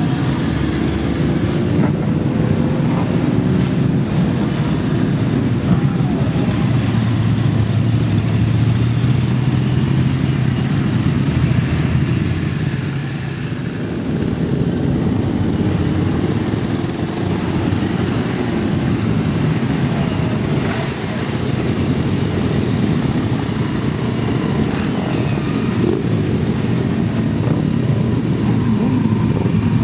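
Many motorcycle engines running together, idling with occasional revs. A faint high-pitched beeping pulses near the end.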